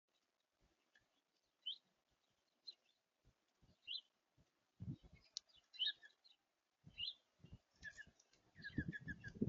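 Small songbirds at a feeder giving short, high chirps about once a second, then a quick run of five or six repeated notes near the end, with soft low thumps scattered in between.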